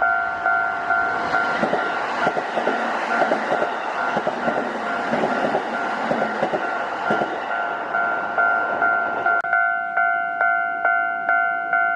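Japanese level-crossing alarm ringing a two-tone electronic ding about twice a second while a Kintetsu Osaka Line train passes close by, its wheels clacking over the rail joints. The train noise stops abruptly about nine and a half seconds in, and the crossing bell rings on alone.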